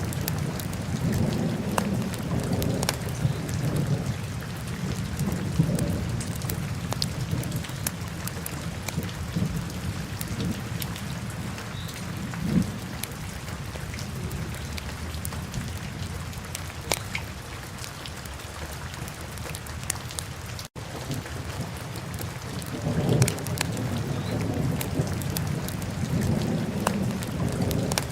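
Wood fire burning in a fireplace: a low rumble of flames with scattered sharp crackles and pops, swelling and easing, and a split-second dropout about two-thirds of the way through.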